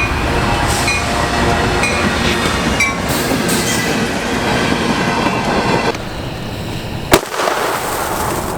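A train rolling past on the track, a loud steady rumble with metal-on-metal wheel squeal through the first few seconds, easing off about six seconds in. A single sharp crack follows about a second later.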